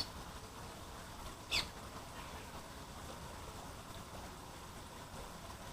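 Two short, high calls from a euphonia, the first at the very start and the second about a second and a half in, over the steady rush of a waterfall.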